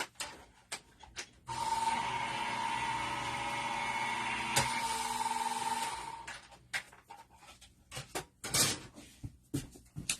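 Embossing machine running a raindrops embossing folder through its rollers: a steady whirring whine that starts about a second and a half in and stops about six seconds in, with one click midway. Small handling knocks and clicks come before and after.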